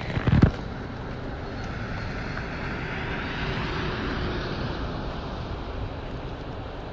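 Steady rush of traffic passing on a highway, mixed with wind on the microphone, swelling for a few seconds in the middle; a couple of sharp knocks at the very start.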